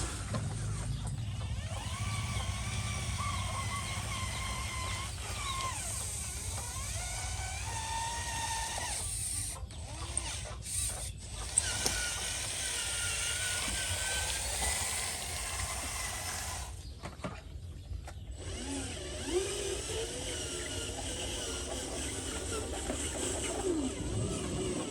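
Small electric motors and gearboxes of radio-controlled construction models whining, the pitch rising and falling as they speed up and slow down, over a steady low rumble, with a few sharp clicks.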